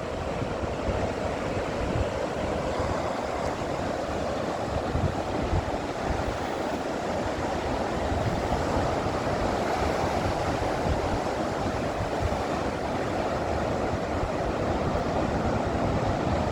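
Ocean surf washing and breaking against the rocky shore below, a steady roar of water with wind buffeting the microphone.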